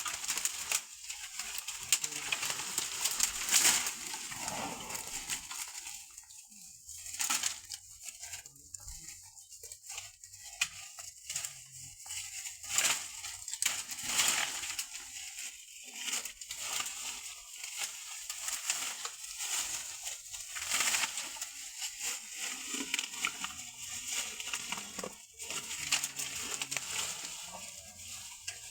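Elephant crunching and breaking bamboo: a long run of irregular sharp cracks and crackles.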